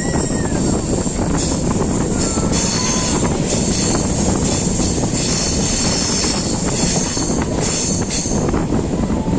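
Train running on the rails: a steady rumble of wheels and coaches, with high-pitched wheel squeal coming and going over the middle seconds.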